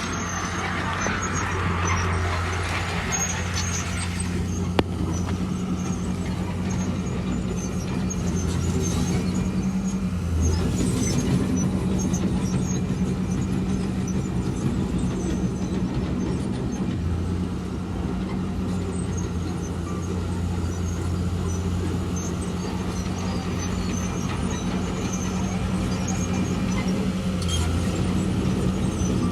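Diesel engine of heavy earthmoving machinery running steadily, with a deep hum that rises and dips slightly as it works. There is a rushing noise in the first few seconds and a single sharp click about five seconds in.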